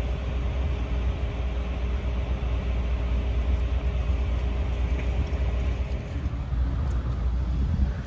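Car driving on a highway: a steady low rumble of engine and road noise, with a faint hum that fades out about six seconds in.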